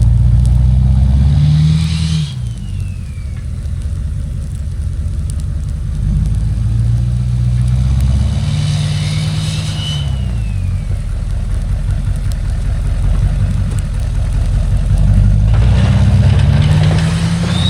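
Chevy Duramax 6.6-litre V8 turbo-diesel pickup engine pulling under throttle, its revs climbing and dropping three times. A turbo whistle falls away each time the throttle lifts, about two and ten seconds in, and rises again as it pulls near the end.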